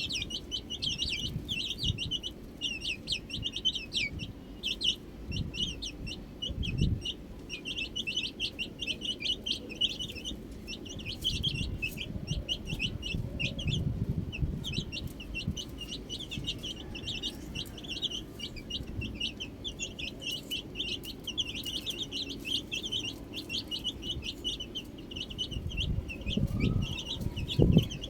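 A brood of baby chicks peeping continuously: many short, high chirps overlapping several times a second, over a low rumble with a loud low thump near the end.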